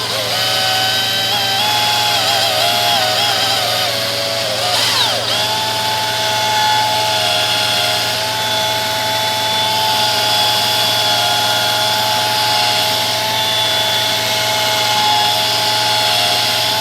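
Small power tool spinning a brush to scrub rust out of the inside of an adjustable wrench, its motor whining steadily. The pitch sags briefly about five seconds in as the brush bears down, then holds steady until the motor cuts off at the end.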